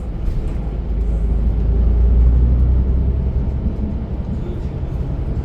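A city bus running, heard from inside the cabin: a steady low rumble of engine and road noise that swells for a couple of seconds in the middle.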